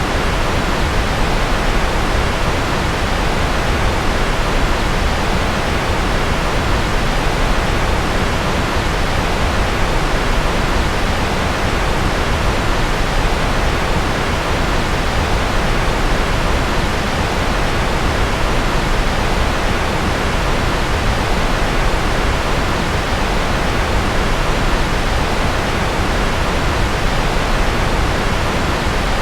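Steady white noise of the deeper, pink kind: an even rushing hiss that never changes.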